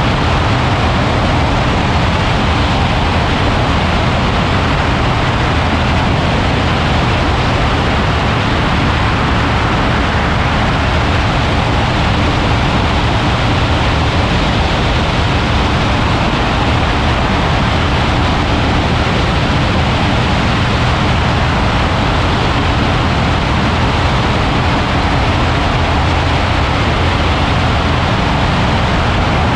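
Ultralight aircraft's engine running steadily in flight, with wind rushing over the microphone; a loud, unchanging drone.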